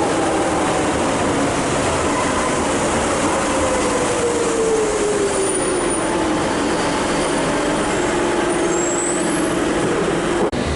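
Train running through an underground station: a loud, steady rumble with a motor whine that falls slowly in pitch, as when a train slows, then holds level. A few brief high squeals come in the second half.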